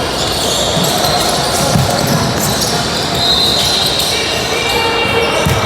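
A basketball dribbling on a gym floor under a steady din of crowd and player voices in a large hall. High squeaks come in about three seconds in and again toward the end.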